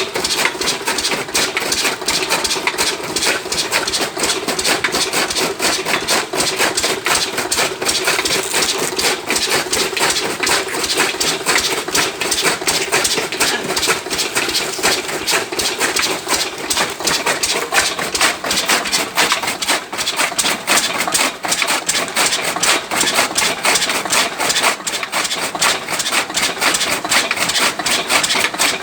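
Lister-type 8 hp diesel engine running under load, belt-driving a chaff cutter that is chopping sugarcane. A steady, rapid, even knocking runs throughout.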